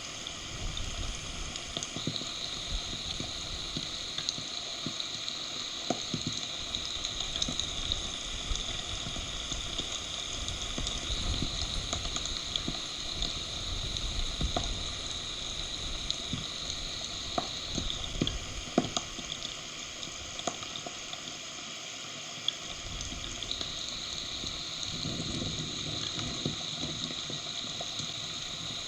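Heavy thunderstorm rain hissing steadily on a forest nest, with scattered sharper drop hits and a low rumble that comes and goes.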